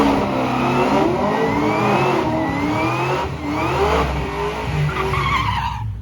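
Drag-racing car accelerating hard, its engine pitch climbing and dropping back several times as it shifts up through the gears. The sound cuts off sharply near the end.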